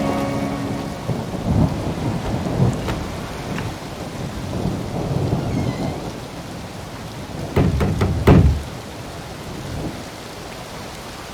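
Steady rain with rolling thunder, and two loud, sudden low thuds or cracks about eight seconds in.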